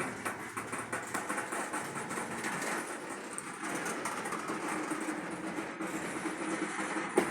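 Freight train cars rolling slowly, their wheels clattering and clicking over the rails. A steady drone joins about three seconds in, and a single sharp knock comes near the end.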